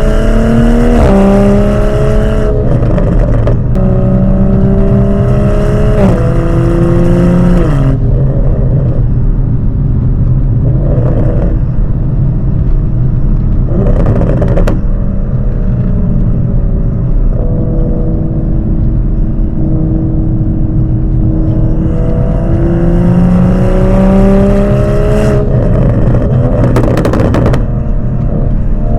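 Toyota GR Supra's engine through a Dinan exhaust with a catted downpipe, driven hard: the exhaust note climbs in pitch under acceleration, then drops sharply at each gear change, several times over, with short bursts of noise at some of the shifts.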